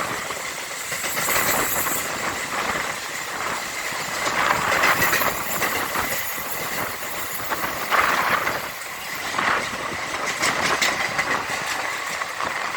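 Sethu Superfast Express passenger train running past at speed, a loud rush of coaches with wheels clattering over rail joints in irregular louder surges.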